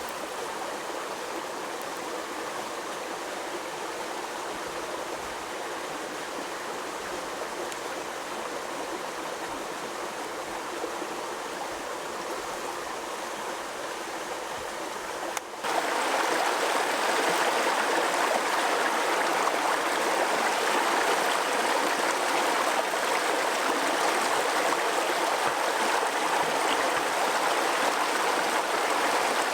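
Steady rush of running water, like a mountain stream. It cuts and comes back noticeably louder about halfway through.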